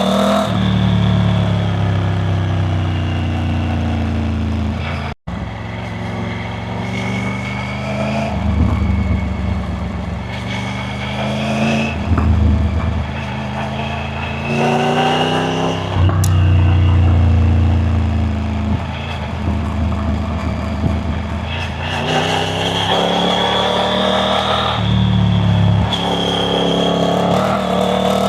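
Triumph Tiger 900 Rally Pro's three-cylinder engine under way, its revs rising and falling again and again as the throttle opens and closes. The sound drops out for an instant about five seconds in.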